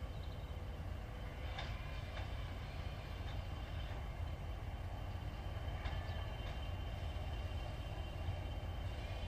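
Class 20 diesel locomotive running with a steady low rumble, a few short high chirps heard over it.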